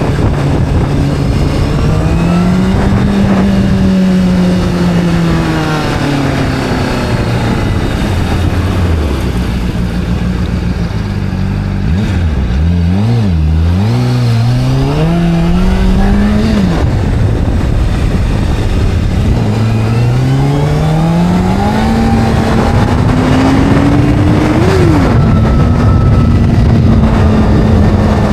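Sport motorcycle engine running under way. Its pitch climbs and falls in steps as it speeds up and slows down, with a few quick revs and drops about halfway through and a long steady rise after that.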